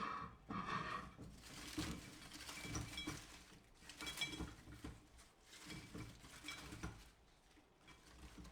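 Dishes and utensils being handled: soft irregular knocks and rattles with a few short, light clinks near the middle.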